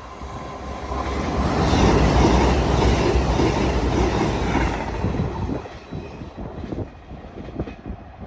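Train passing on the main line: the noise builds to a peak about two seconds in and then fades. In the second half, the wheels clack over rail joints as the last carriages go by.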